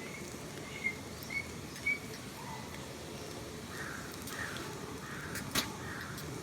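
A small bird giving short chirps, four in the first two seconds and softer calls later, over a steady background hiss of outdoor ambience, with one sharp click near the end.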